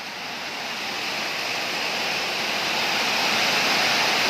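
Storm wind and heavy rain making a steady rushing noise that swells gradually louder.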